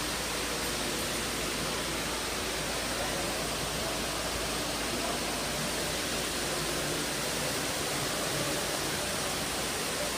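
Indoor waterfall: water cascading over tall walls, heard as a steady, unbroken rushing hiss.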